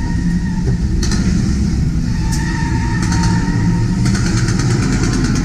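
Loud rumble of car engines revving in a street-racing chase show's sound effects, with a rapid rattling clatter about four seconds in.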